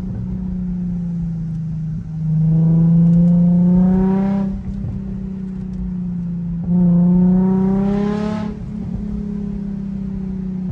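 Nissan 350Z Nismo's V6 through a Tomei single-exit axle-back exhaust, pulling hard twice with the engine note rising each time, then easing off to a quieter, steady drone in between.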